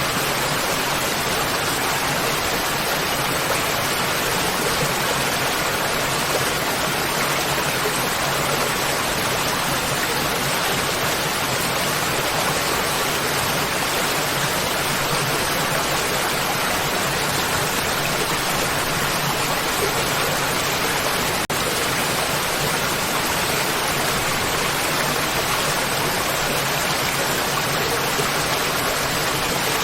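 Waterfall: falling water in a steady, even rush, with one very short dropout about two-thirds of the way through.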